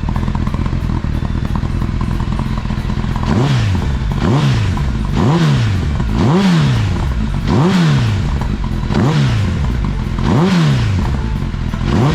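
Honda CBR1000RR SC57 inline-four running through a Mugen aftermarket exhaust: it idles steadily, then from about three seconds in is blipped seven times, each rev rising quickly and falling straight back to idle.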